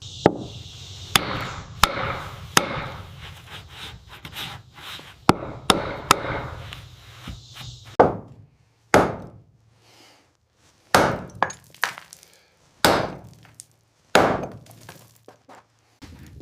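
Hand-tool work on wood: a series of irregular sharp knocks and thuds, about fifteen in all, some closely spaced and some with short pauses between.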